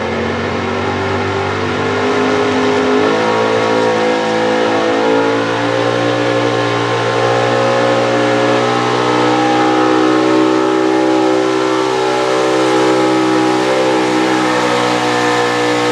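Pro stock 4x4 pulling truck's engine running at full throttle as it pulls the sled down the track. The pitch steps up about three seconds in, then holds high and fairly steady.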